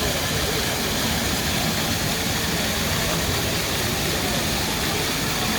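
Pavement water fountain's jets splashing onto the paving in a steady rush of water, with voices faint in the background.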